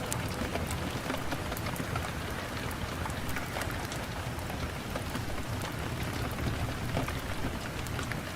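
Steady rain with a crackling fire: an even hiss of rain with scattered sharp crackles throughout.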